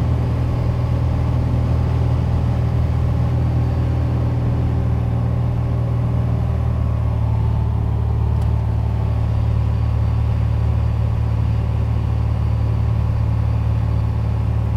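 Piper Dakota's six-cylinder Lycoming engine and propeller running at a steady low drone, heard from inside the cabin in flight.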